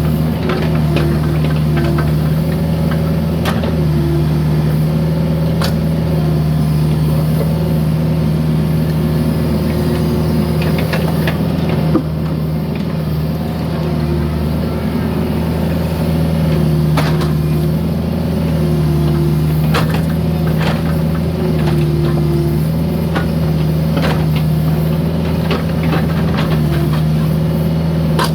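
A mini excavator's diesel engine runs steadily while it works, its pitch sagging slightly and recovering every few seconds as the hydraulics take load. Short knocks and clunks are scattered throughout.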